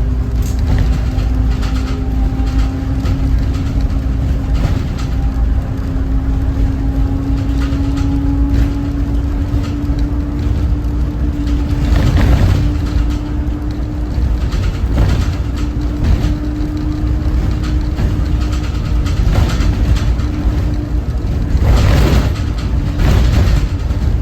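School bus driving on its Cummins ISB 6.7 straight-six diesel: a heavy low rumble with a steady whine that slowly rises in pitch through the first half, then holds. Brief bursts of rattle or rushing noise come about halfway and again near the end.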